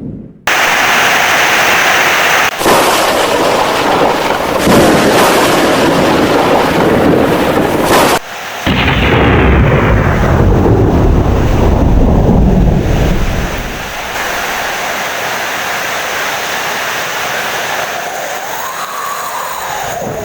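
Heavy rain with thunder: loud rumbling thunder through the first two-thirds, cut off abruptly a couple of times, dying away about thirteen seconds in and leaving steady rain.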